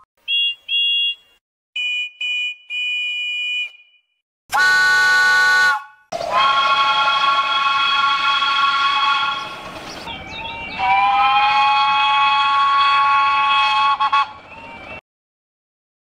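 Steam locomotive whistles. First come a few short, high toots of a cartoon engine's whistle. Then the chime whistle of the 15-inch-gauge steam locomotive Green Goddess gives a short blast about four seconds in, followed by two long steady blasts.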